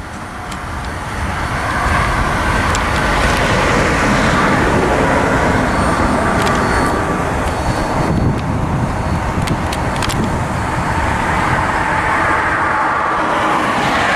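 Freight train rolling past close by: a steady rumble and rush of wheels on rail, with occasional sharp clicks.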